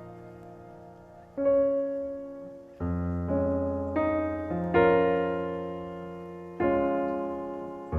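Background music: slow solo piano, single notes and chords struck about once a second, each ringing and fading before the next.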